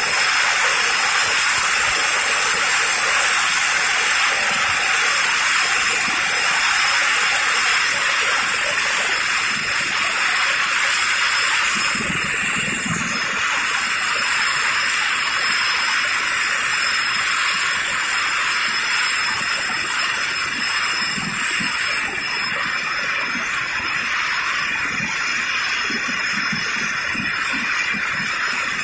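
Helicopter's turbine engines running steadily nearby: a loud, even rushing hiss with thin high whining tones held throughout.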